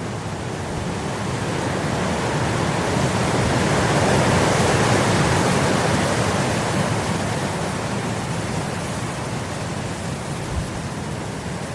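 Wind blowing across grass: a steady rushing that swells into a gust about four seconds in and then eases off again.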